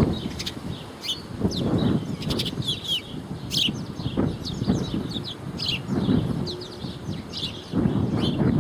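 Small birds chirping, many short high chirps in quick succession, with gusts of wind buffeting the microphone in surges.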